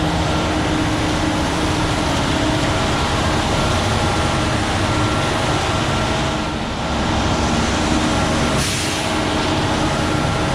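Terex FD4000 front-discharge concrete mixer truck running steadily, with a brief hiss about eight and a half seconds in.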